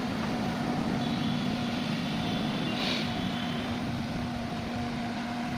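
Toyota Hyryder running steadily: a constant low drone with a fainter higher hum over a bed of noise, and a brief hiss about three seconds in.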